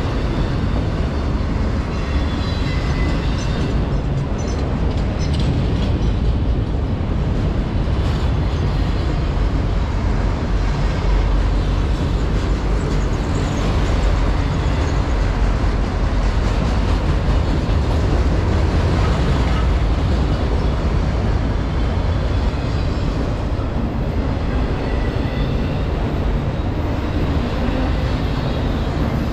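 Freight cars of a manifest train rolling past: a steady, loud rumble of steel wheels on the rails.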